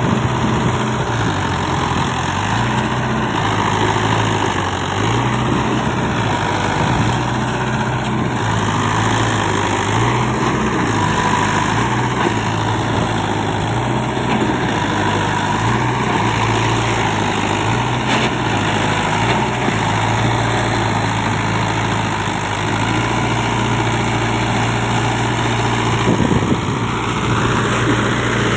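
Mahindra tractor's diesel engine running, its pitch stepping down and back up every couple of seconds, with a few short knocks near the end.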